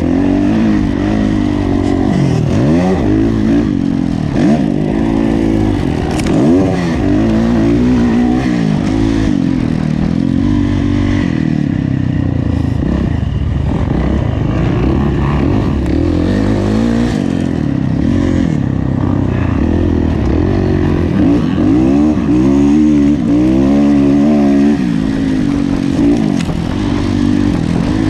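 Kawasaki KX450F's single-cylinder four-stroke engine being ridden hard, its pitch rising and falling over and over as the throttle is opened and closed and the gears change.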